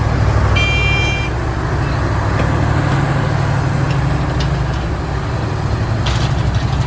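Steady low engine rumble, with one short high-pitched vehicle horn beep about half a second in.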